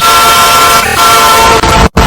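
Locomotive air horn blaring a chord of several steady tones, turned up until it is heavily distorted, with a brief break about a second in and a short cut near the end.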